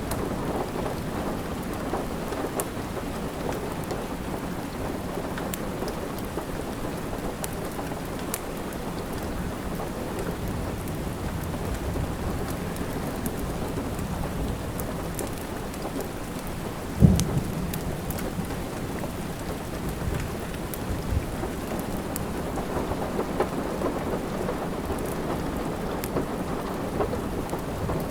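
Steady rain with the sharp, scattered crackles of a wood fire in a fireplace. A louder low thump comes about seventeen seconds in.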